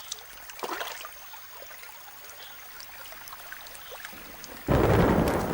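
Faint forest sounds with a few soft ticks and short chirps, then near the end a rainstorm breaks suddenly: a loud rumble of thunder and the rush of heavy rain starting at once.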